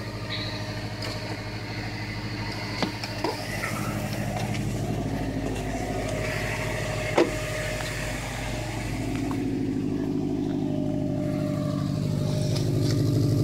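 2018 Subaru WRX's turbocharged 2.0-litre boxer four-cylinder idling steadily just after a cold start, with a single sharp click about halfway through and a slightly louder idle in the last few seconds.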